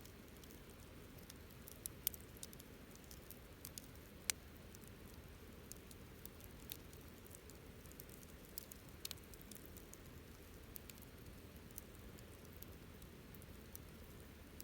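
Wood fire crackling softly: scattered sharp pops and snaps over a faint steady hiss, the loudest snaps about two and four seconds in.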